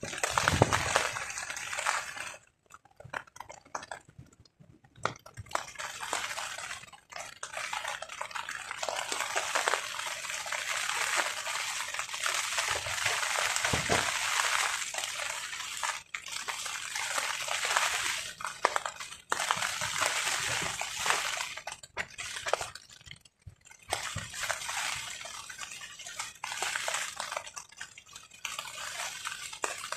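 Rain pattering on a tarp, swelling and easing as gusts come and go, falling almost quiet for a couple of seconds a few seconds in and briefly again later. A couple of low thuds stand out, one right at the start and one near the middle.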